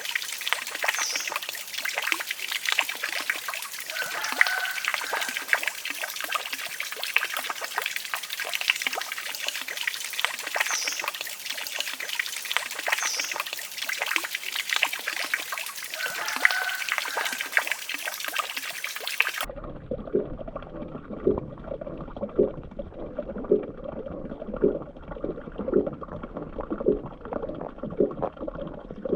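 Water trickling and splashing, with a few short high chirps. About two-thirds of the way through, the sound changes abruptly to a duller, muffled one with soft, regular taps about once a second.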